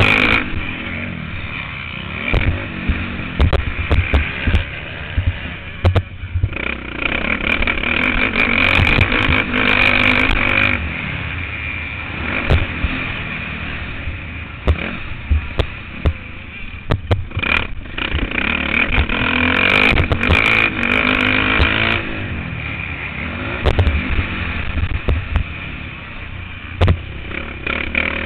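Motocross motorcycle engine heard on board, its revs rising and falling again and again as the throttle is opened and closed through the lap, with short knocks and clatter throughout.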